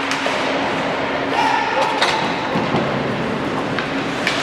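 Ice hockey game sounds in an arena: a few sharp clacks and thuds of sticks, puck and boards over voices and crowd chatter.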